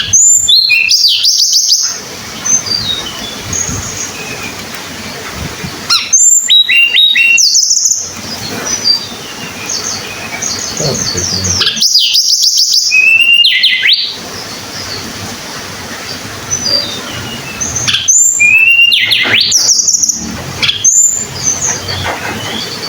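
Tledekan gunung, a Javanese mountain songbird, singing. It gives a loud phrase of rapid high notes and falling sweeps, about two seconds long, four times, about every six seconds, with softer chirps between the phrases.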